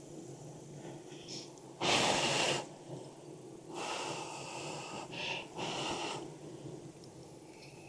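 Several puffs of rushing air: a loud one about two seconds in, then three more about four to six seconds in, over a steady low hum.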